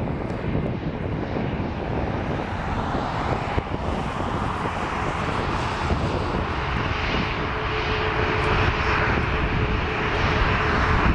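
Jet noise from an Embraer E175 regional jet's twin turbofan engines on its takeoff run, growing gradually louder, with a steady whine coming in about halfway through.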